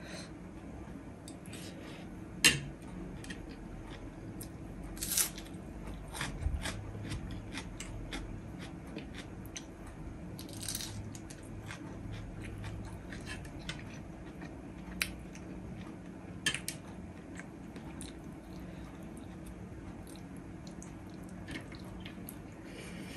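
Close-miked chewing and eating of chicken biryani, with a few sharp clicks of utensils against the plate, the loudest about two and a half seconds in, over a faint steady hum.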